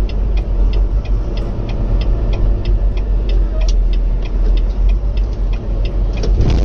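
Road vehicle in motion, with a heavy steady low rumble of engine and road noise. Light regular ticks run over it at about four a second.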